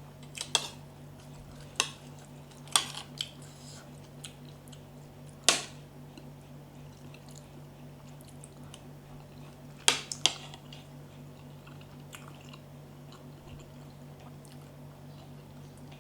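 Close-miked chewing and biting of crunchy santol salad, with several sharp crunches in the first half and a quick cluster of them about ten seconds in, over a steady low hum.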